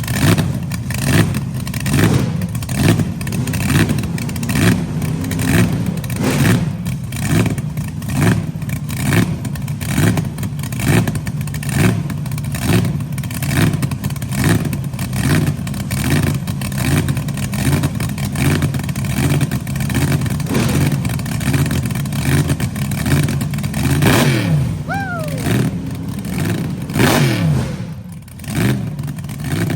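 High-performance car engine idling with a lumpy, rhythmic lope, revved twice near the end.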